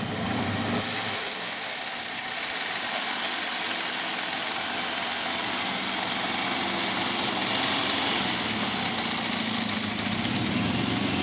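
1981 Honda CB650's air-cooled inline-four motorcycle engine running steadily, driving a small aluminium boat.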